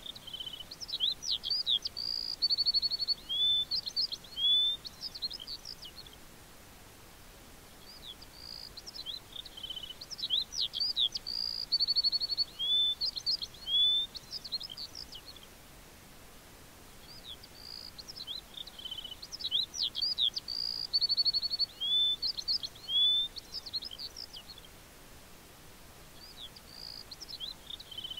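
A songbird singing a long phrase of quick rising and falling whistled notes with a short trill in the middle. The same phrase repeats about every nine seconds.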